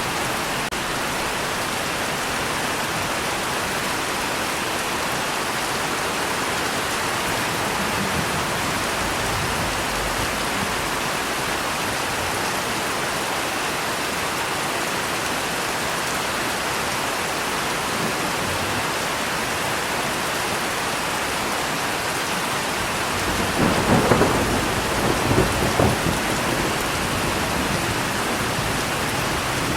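Steady rain hiss, joined about three-quarters of the way through by a roll of thunder with several cracks over a few seconds.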